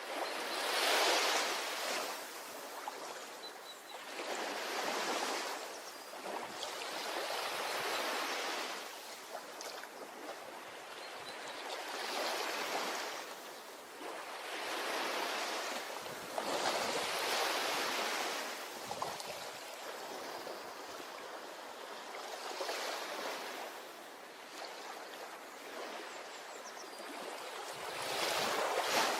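Ocean surf breaking and washing onto a beach, each wave swelling up and fading away in turn, about every four seconds.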